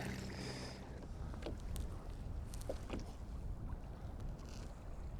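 Low, steady rumble of wind and sea water around a sea kayak, with a few faint light knocks.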